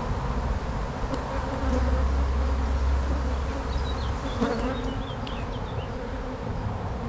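A mass of honey bees buzzing around an opened hive, a dense steady hum. A low rumble comes in for a couple of seconds, with a single knock about four and a half seconds in.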